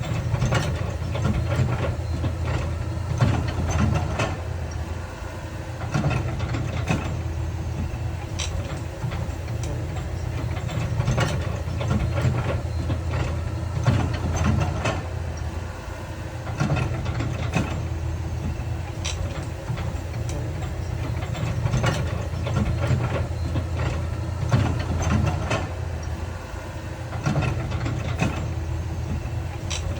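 Heavy diesel earthmoving machinery running steadily, with frequent irregular clanks and knocks.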